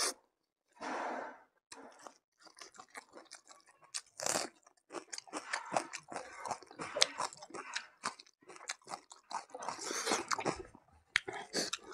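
Close-up chewing, smacking and crunching of a person eating buffalo meat and rice by hand: a stream of wet mouth clicks with a few louder bursts.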